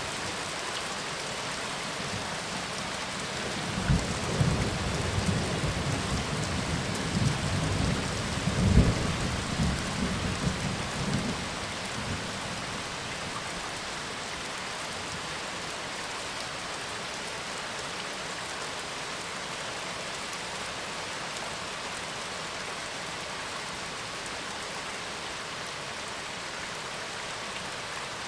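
Steady heavy rain, with a roll of thunder rumbling about four seconds in, peaking a few seconds later and dying away after about eight seconds.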